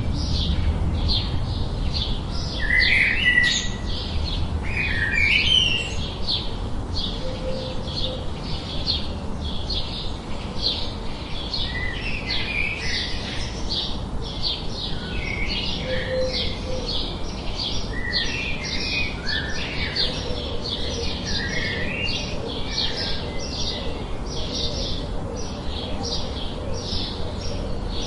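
Birds chirping: a steady stream of short, high chirps, a couple each second, with lower rising calls mixed in.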